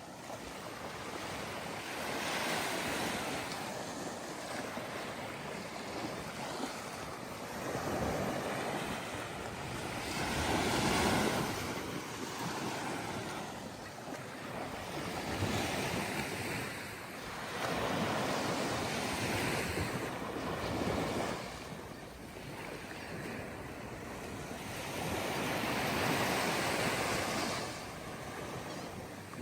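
Waves breaking and washing up onto a sandy beach, the surf swelling and fading every few seconds.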